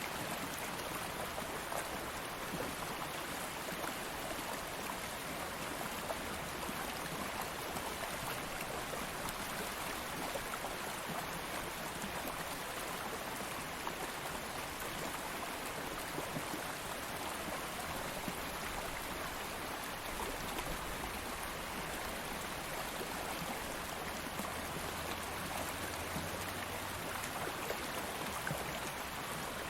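A stream of water flowing steadily, an even, unbroken babble.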